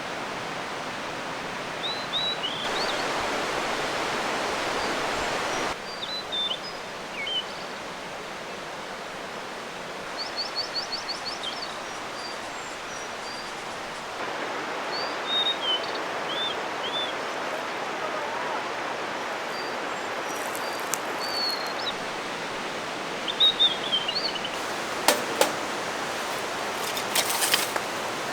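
Steady rush of a stream with small birds chirping over it, including a quick trill of about eight notes near the middle. A few sharp clicks sound near the end.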